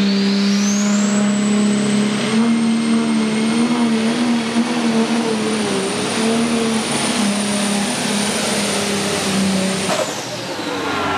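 Pro stock pulling tractor's turbocharged diesel engine under full throttle. The turbo whine climbs to a very high, steady scream within the first second and holds over the engine's steady drone, then both fall away about ten seconds in as the throttle comes off.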